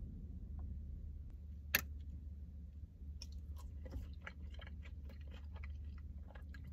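Quiet chewing and small mouth clicks while tasting ranch dressing, over a steady low hum inside a car, with one sharp click a little under two seconds in.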